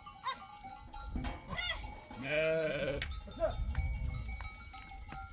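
A flock of sheep bleating: one long bleat about two seconds in, with a few shorter bleats around it, over the ringing of animal bells.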